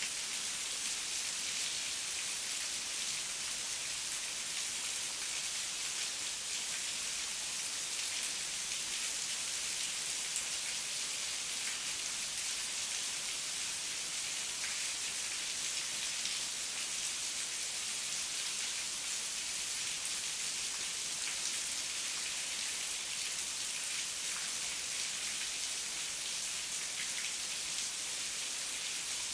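Heavy rain falling steadily: a constant high hiss with the patter of individual drops.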